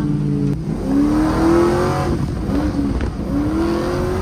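Drift car engine revving hard in three pulls, each rising in pitch and then dropping back, with two short clicks between them.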